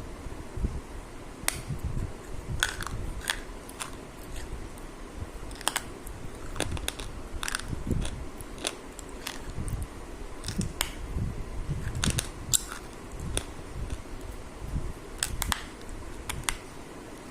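A person eating close to the microphone: chewing and biting, with irregular sharp clicks and mouth smacks every second or so.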